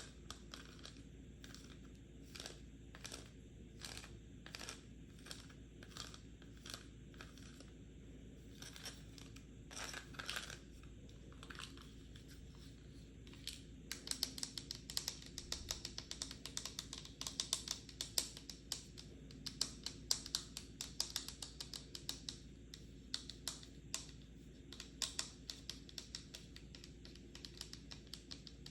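Tapping on a pill box: slow, evenly spaced taps at about two a second, then from about halfway through a fast, dense flurry of taps.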